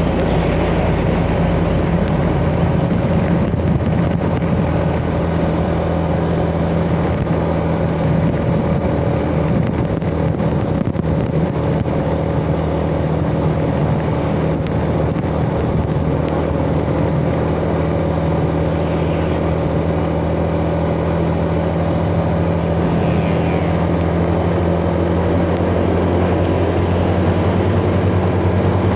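Yamaha Jupiter Z's 110 cc single-cylinder four-stroke engine running at a steady cruising speed while riding, heard from the rider's chest with road and wind noise.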